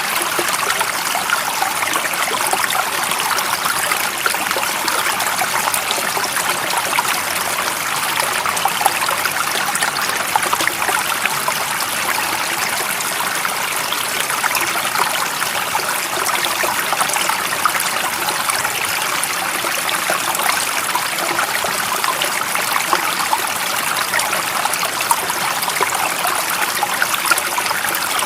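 Stream water running and trickling steadily, a continuous bright splashing rush with no breaks.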